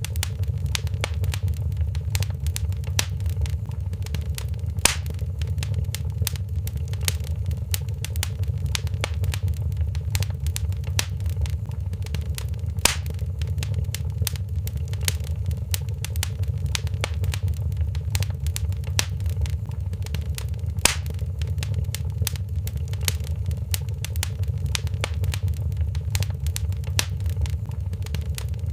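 Wood fire in a stone fireplace crackling steadily over a low rumble, with three louder pops about eight seconds apart.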